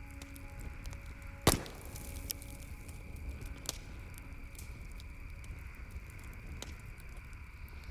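Wood campfire crackling, with scattered small pops and one loud sharp crack about a second and a half in.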